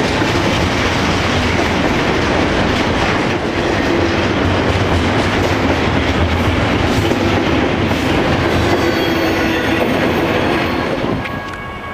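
A double-stack intermodal freight train rolling past close by, its steel wheels clattering and roaring over the rails. The noise falls away near the end.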